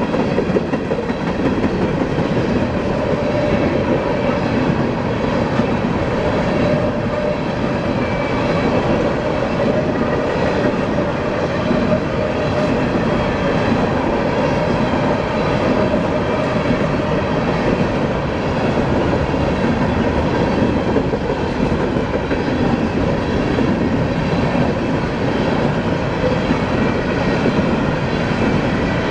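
Freight train of coal cars rolling past close by: a steady rumble and clatter of steel wheels on the rails, holding level throughout.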